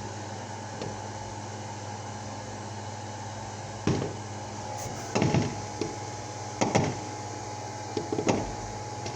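Fireworks going off, a short sharp pop or bang about every second and a half after a few seconds, over a steady electrical hum.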